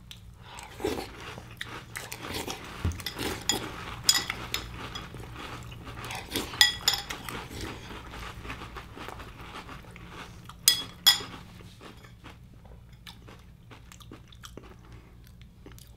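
A person chewing a mouthful of Apple Pie Toast Crunch cereal squares in milk, close up: crisp crunching and wet chewing, with a couple of sharper crunches about eleven seconds in, then softer chewing near the end.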